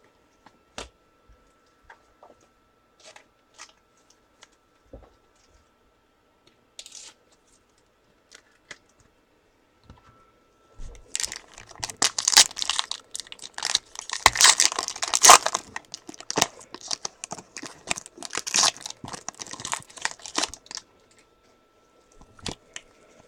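Trading card pack wrapper being torn open and crinkled: a few light handling clicks, then about ten seconds of dense tearing and crinkling.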